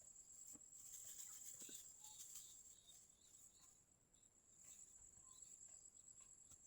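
Faint, steady, high-pitched insect chorus with a few soft clicks.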